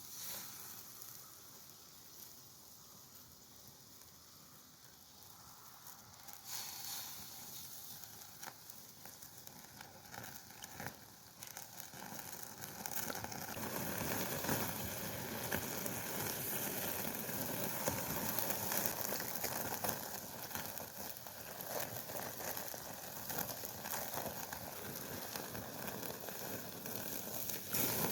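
Chicken steak sizzling over a campfire, with scattered crackles. It starts faint and grows much louder about halfway through, then sizzles steadily.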